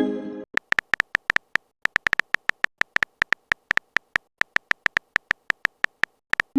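Smartphone keyboard typing sounds: a quick, uneven run of short pitched clicks, a few each second, as a text message is typed out. A chime-like message tone fades out at the start, and a rising send sound begins at the very end.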